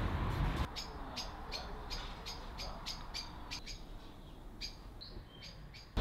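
Short, high bird chirps repeating two or three times a second against a quiet background. A brief shuffle of handling noise comes right at the start.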